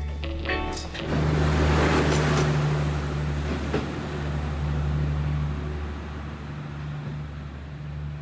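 Motorbike engine running steadily on the move, with wind and road noise over it. A few notes of background music end about a second in.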